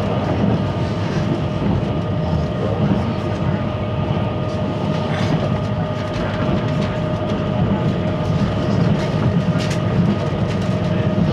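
Running noise inside a JNR 583 series electric train at speed: a steady rumble of wheels on rail under a constant hum, with a few light clicks from the track.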